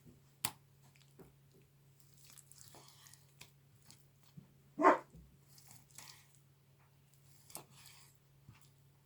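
Chef's knife slicing through a piece of meat, with soft scattered clicks and taps of the blade on the cutting board. One short, loud sound about five seconds in.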